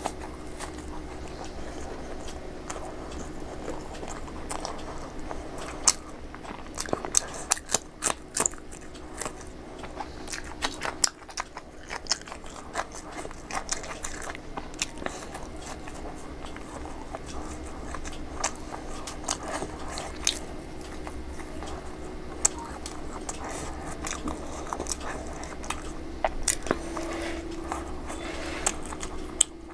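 Close-miked biting and chewing of panipuri (golgappa), the crisp hollow puri shells crunching with many sharp cracks.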